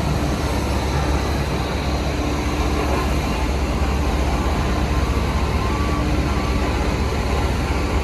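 Heavy diesel road-construction machinery running steadily: a continuous deep rumble with no breaks or changes.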